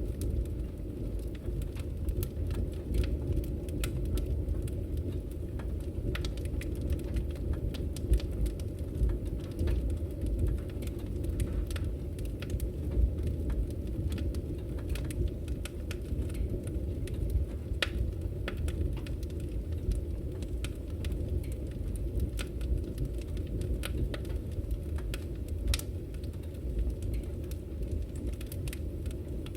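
Wood fire burning in a fireplace: a steady low rumble of the flames with frequent sharp crackles and pops from the burning firewood.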